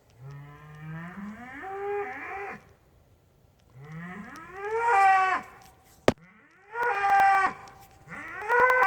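Bull bellowing: four drawn-out moos, each rising in pitch. A single sharp click sounds about six seconds in.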